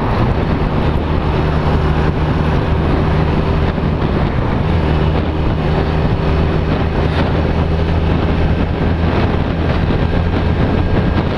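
Honda CB250 Nighthawk's small air-cooled parallel-twin engine running at steady freeway revs, mixed with heavy wind and road rush on the helmet-camera microphone.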